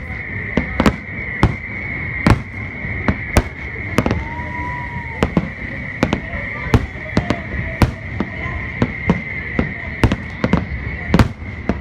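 Fireworks going off in an irregular run of sharp bangs, about two a second, over a steady high-pitched hiss. A short held tone sounds about four seconds in.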